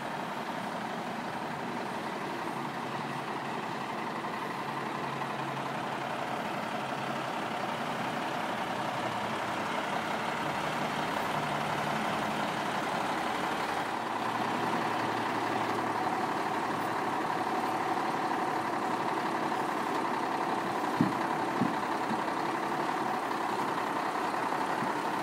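Diesel engine of a 1997 Caterpillar 140H motor grader running steadily and growing slowly louder, with two short knocks near the end.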